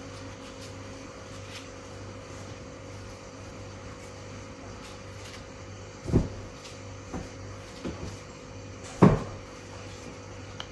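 A few sudden knocks, the two loudest about six and nine seconds in, over a steady low hum.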